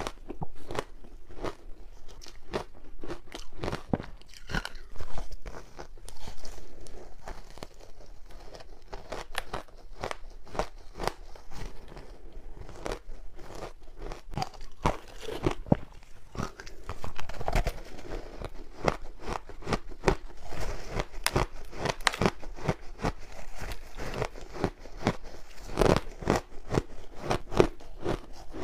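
Close-up crunching of frozen matcha ice between teeth: a dense, irregular run of sharp cracks and crunches as the ice is bitten and chewed.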